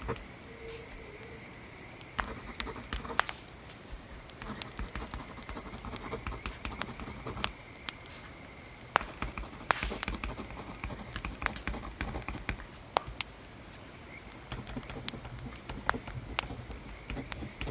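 Wood fire crackling with sharp, irregular pops, over stretches of writing strokes on paper that come in groups a few seconds long with short pauses between.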